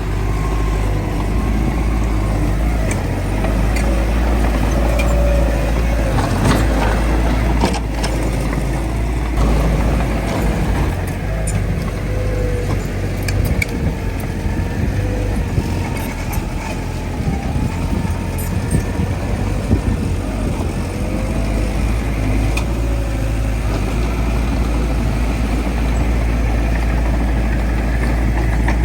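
Diesel engine of heavy earthmoving machinery running steadily, with a few sharp metallic clanks.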